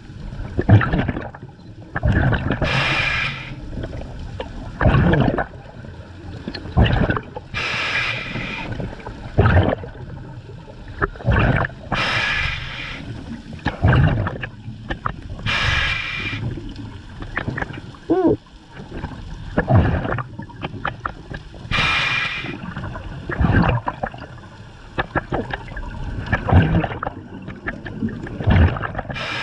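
Scuba diver breathing through a regulator underwater: five hissing inhales a few seconds apart, each followed by a rush of bubbling, gurgling exhaust.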